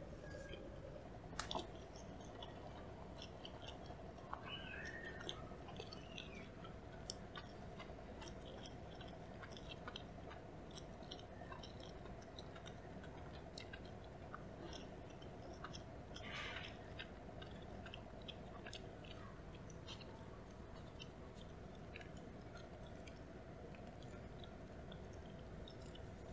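Faint close-up chewing of a mouthful of grilled eel sushi: soft wet clicks and smacks of the mouth, scattered throughout, over a steady low electrical hum.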